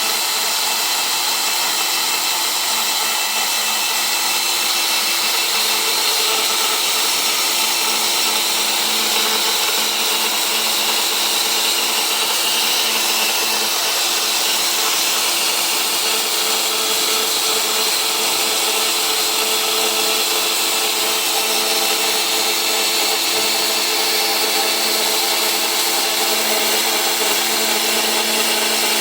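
Axxair orbital tube cutter running steadily as it cuts a pipe: an even motor whine over a hiss, with no change in pitch or level.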